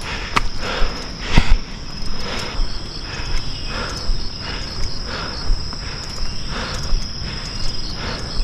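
Insects, crickets or similar, trilling in a steady high-pitched drone, with a soft rhythmic sound about once a second from the hiker climbing.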